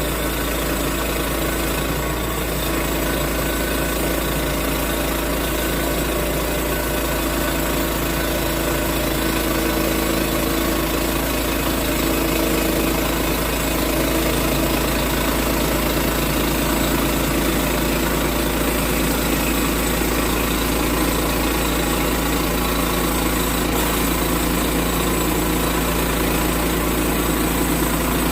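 Sawmill's engine running steadily while the mill cuts into an oak log, growing slightly louder about a third of the way through.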